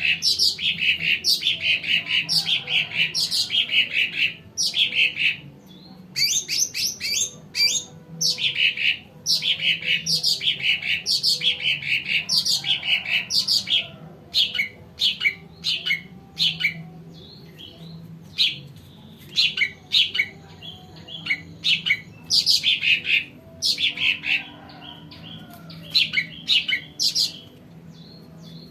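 A Sumatran cucak ranting songbird singing fast, chattering phrases of quick descending chirps. The phrases come almost without a break for about the first half, then in shorter bursts with gaps between. This is the kind of song bird-keepers play as a lure to get young birds singing.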